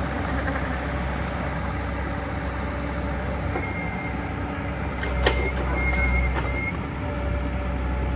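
Backhoe's diesel engine running steadily under a low rumble, with a sharp clank about five seconds in and a few short high squeaks.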